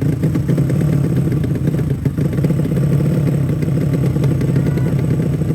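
Small motorcycle engine running steadily at an even speed, a rapid pulsing beat with no rise or fall in pitch.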